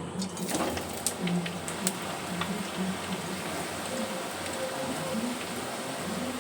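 Carrots frying in hot oil and ghee in a kadai, a steady sizzle with sharp crackles and pops in the first couple of seconds.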